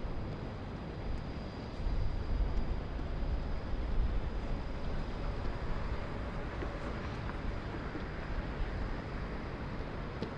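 Distant city ambience: a steady low rumble of traffic and other urban noise carried up from street level, with uneven swells in the low rumble about two to four seconds in.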